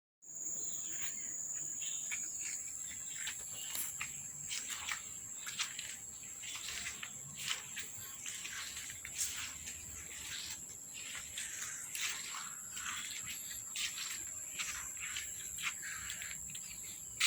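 Outdoor nature ambience: a steady high-pitched insect drone with many short bird chirps scattered throughout.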